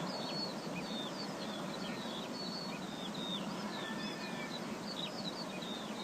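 Small birds chirping: many short, quick chirps, some rising and some falling in pitch, over a steady background hiss of outdoor ambience.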